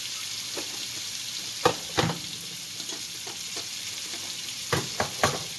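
Chicken frying in a pan on high heat, a steady sizzle. A few sharp clicks cut through it, two about two seconds in and three in quick succession near the end.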